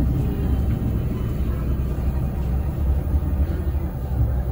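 Steady low rumble of a passenger train car rolling along the track while the train is moving.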